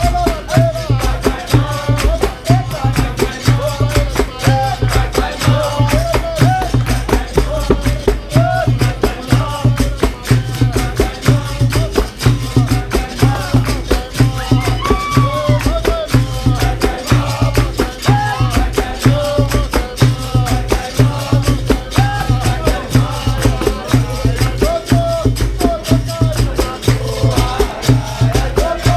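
Capoeira roda music: singing over a steady, dense percussion rhythm with a rattling shaker.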